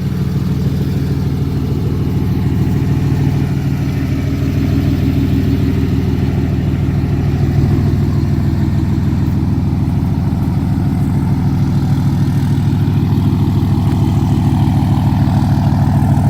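The 6.7-litre Cummins turbo-diesel straight-six of a 2012 Ram 2500 idling steadily.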